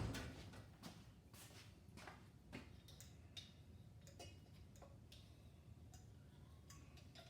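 Near silence with faint, irregular clicks and ticks, about a dozen over several seconds, from small parts and tools being handled while lubricating a piston and ring compressor.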